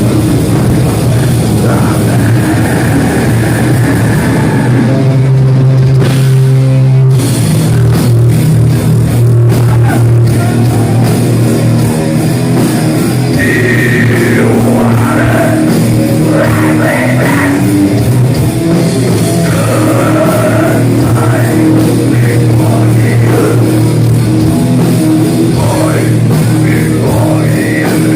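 Live heavy metal band playing loud, with distorted guitar, drum kit and sung vocals.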